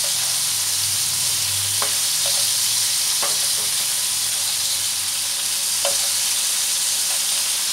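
Salt-and-turmeric-coated prawns sizzling steadily in hot mustard oil in a non-stick frying pan, with a few light taps as a spatula turns them.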